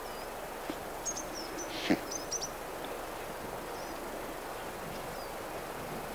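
A steady outdoor background hiss with a few faint, short, high-pitched bird chirps scattered through it, and one louder brief sound just under two seconds in.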